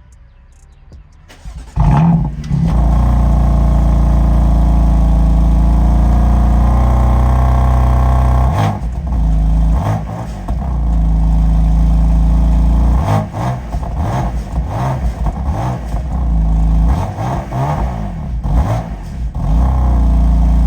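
BMW M4 CS (F82) twin-turbo straight-six started cold, catching suddenly about two seconds in and then running at a loud, steady idle. In the second half the engine note wavers and dips several times.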